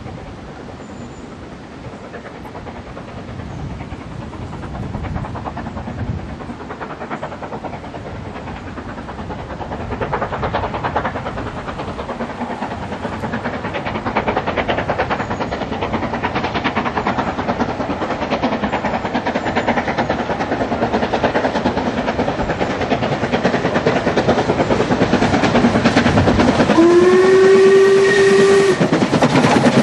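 Steam locomotive approaching and working, its exhaust and running noise growing steadily louder. Near the end it sounds its whistle once, for about two seconds, the note rising slightly at first and then holding.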